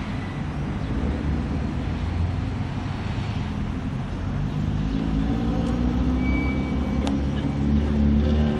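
Engine rumble with street traffic noise, growing louder and more pitched from about halfway through.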